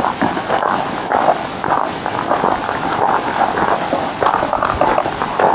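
Footsteps crunching on a dry forest path of leaf litter and loose stones, roughly two steps a second.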